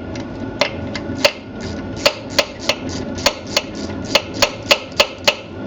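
A hammer striking metal, about a dozen sharp blows, each with a short ring. They come faster and more regularly after about two seconds, roughly three blows a second.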